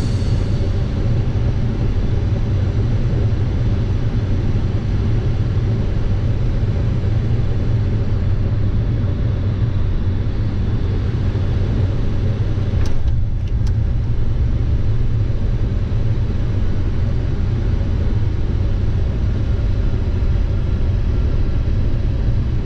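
Steady low rumble and rushing noise of a Dassault Falcon 50 business jet's three turbofan engines and airflow, heard from inside the aircraft as it comes in to land. There is a brief clatter about thirteen seconds in.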